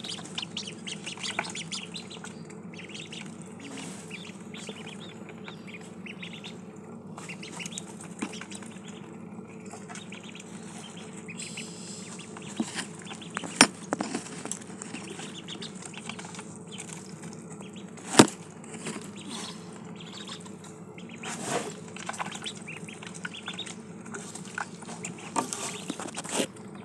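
Ducklings feeding and drinking: a scatter of small pecking clicks and dabbling rustles over a steady low hum, with two sharp taps, about 13 and 18 seconds in, the loudest sounds.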